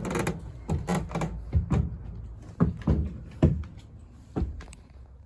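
Footsteps and knocks of someone climbing the entry steps and going in through the door of a motorhome: a run of separate thumps, some half a second apart, others about a second apart, dying away about four and a half seconds in.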